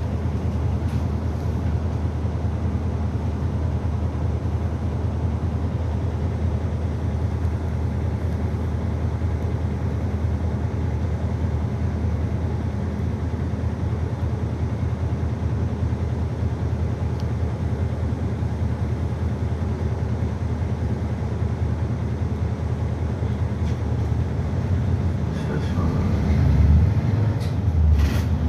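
Interior running sound of a city bus in motion: steady engine and road noise inside the cabin, with the engine growing louder from about 25 seconds in.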